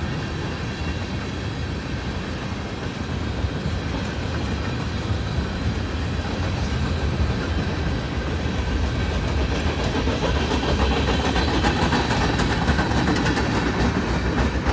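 Norfolk Southern mixed freight train's cars rolling past, a steady low rumble of wheels on rail with rattling clicks that grow louder toward the end.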